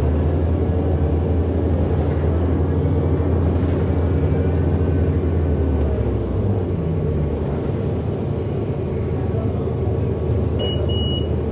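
Onboard sound of a 2008 Orion VII NG hybrid-electric city bus in motion: a steady low drivetrain hum whose pitch shifts about six seconds in. Two short high beeps sound near the end.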